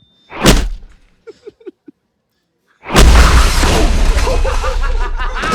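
Trailer sound effects: a sharp whooshing hit about half a second in, then a sudden deep boom about three seconds in that carries on as a loud, heavy low rumble.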